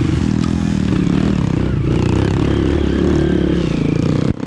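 Dirt bike engine running under way on a trail, its pitch wavering with the throttle, broken by a brief sudden drop near the end.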